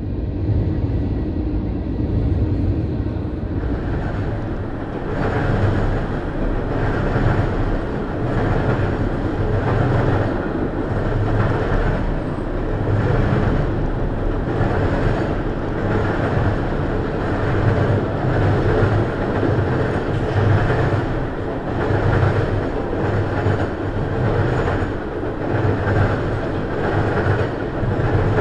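Freight train of covered hoppers and tank cars rolling past: a steady rumble with a regular clack of wheels over rail joints about once every second and a quarter, growing louder a few seconds in.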